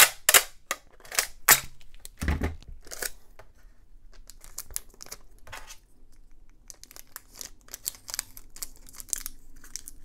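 Adhesive tape being pulled off and torn, then crinkling as it is pressed down to hold a screw onto a small plastic laptop hard-drive cover. A few sharp clicks and taps come in the first three seconds.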